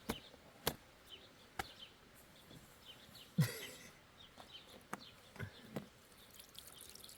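A few scattered sharp knocks or clicks and one louder thump a little after the middle, with faint bird chirps behind.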